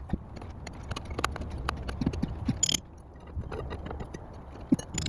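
Irregular metallic clanks and knocks as steel M4 Sherman track links are worked into place, a couple of them sharp and ringing, over a steady low rumble.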